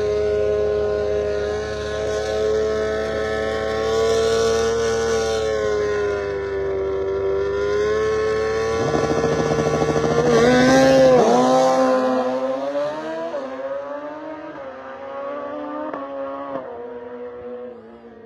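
Drag-racing engines held at high revs on the line, then launching, with pitch drops at each gear change as they pull away and fade down the track.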